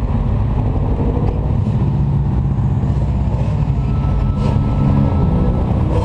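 A car engine running, with a deep, low exhaust note that stays steady throughout.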